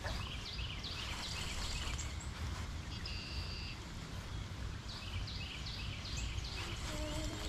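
A songbird singing two runs of quick down-slurred chirps, with a brief steady whistled note between them, over a steady hiss of heavy rain.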